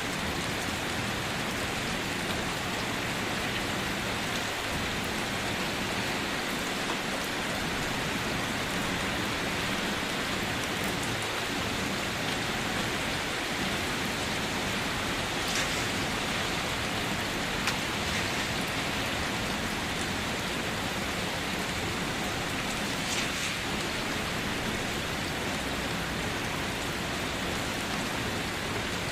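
Steady rainfall, an even hiss of rain hitting foliage and surfaces, with a few slightly louder individual drops standing out now and then.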